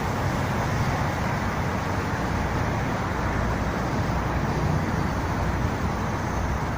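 Steady rumble of road traffic, an even noise that holds without break or distinct events.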